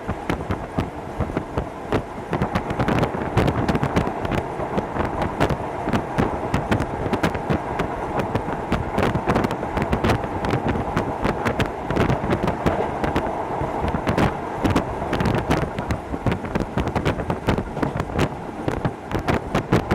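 Running noise of a Hokuso Railway 7260 series electric train heard from on board: a steady rumble of wheels on rail with many quick clicks and rattles throughout.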